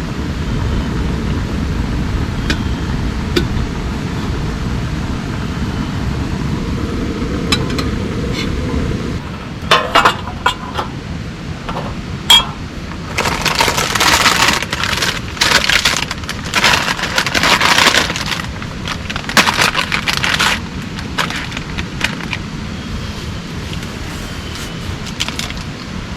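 Steady rain noise, then a run of clicks followed by dense crackling and scraping handling sounds through the middle, which settle down again near the end.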